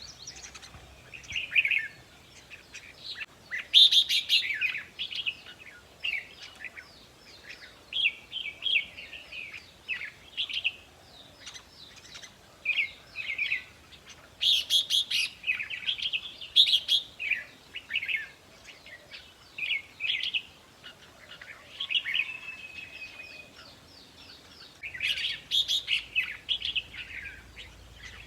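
Red-whiskered bulbuls singing: short, bright chirping phrases repeated every second or two.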